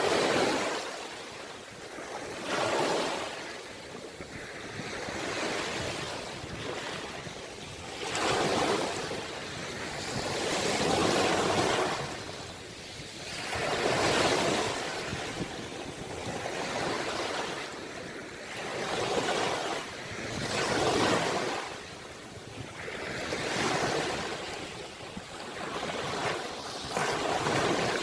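Ocean waves breaking and washing on the shore, swelling and ebbing about every two to three seconds.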